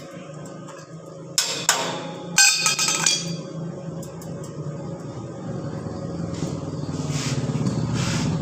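Two loud metallic clanks with ringing, like metal pieces being struck or dropped, about one and a half and two and a half seconds in. After them a small engine runs steadily and grows louder toward the end.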